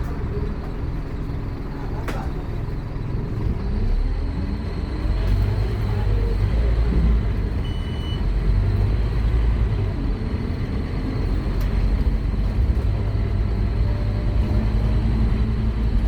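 Scania K230UB Omnilink bus's five-cylinder diesel engine pulling hard under acceleration. Its note rises in pitch and grows louder from about two seconds in, then stays loud.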